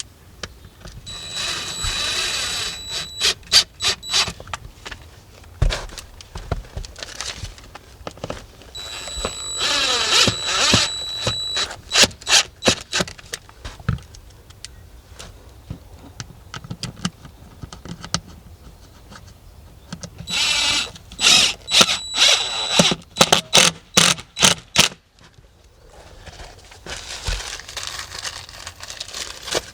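Power drill-driver driving screws to fasten a solar tube skylight's ceiling lens: three runs of a steady high whine, each followed by a quick string of short bursts as the screws are snugged down.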